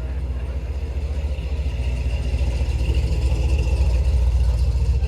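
A car engine running at low speed with a deep, fast-pulsing rumble that grows steadily louder as it comes closer.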